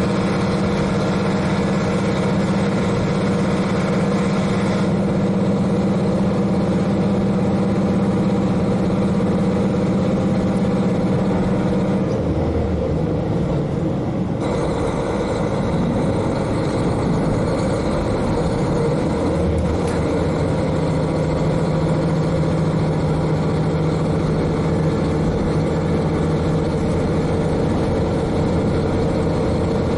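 The N-DMF13HZI diesel engine of a KiHa 40 railcar heard from directly above, running steadily under power. About twelve seconds in its note changes and then settles at a lower steady pitch.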